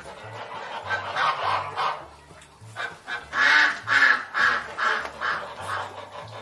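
Geese honking: a quick series of about a dozen loud, repeated honks, loudest about three to four seconds in.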